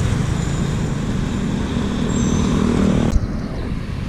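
Road traffic noise with a motor vehicle's engine hum running close by. It cuts off abruptly with a click about three seconds in, leaving a quieter traffic rumble.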